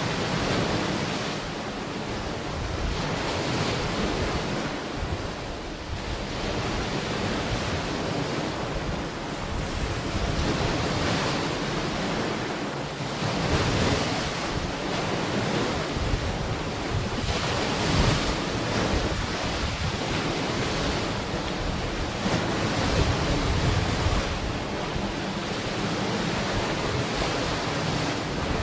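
Ocean waves breaking and washing onto the shore in a steady wash that swells and ebbs every few seconds, with wind rumbling on the microphone.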